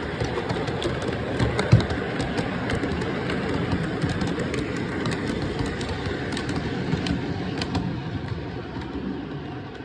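Lionel AC6000 model diesel locomotive running on the track: its Legacy RailSounds diesel engine sound from the onboard speaker over the rumble and ticking of wheels on the rails, with one sharp knock about two seconds in.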